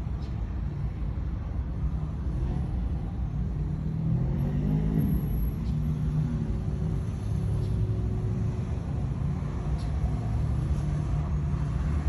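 Low, steady rumble of a running motor vehicle, with a brief pitched note rising and falling around the middle.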